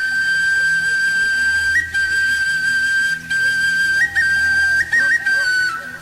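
Flute music: a high, long-held note with quick ornamental flicks, over a faint low drone. The note falls away near the end.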